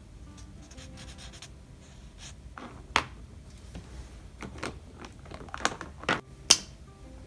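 Ohuhu alcohol marker scratching on sketchbook paper in a series of short, quick strokes, the sharpest about three seconds in and again near six and a half seconds.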